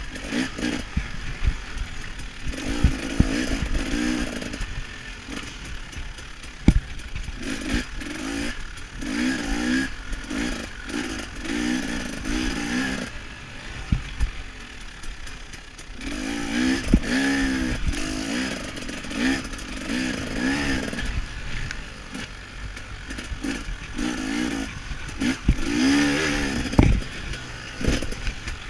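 KTM 300 XC-W two-stroke dirt bike engine being ridden hard, its revs rising and falling every second or two, with a brief easing about halfway through. Sharp knocks and rattles from the bike are heard throughout.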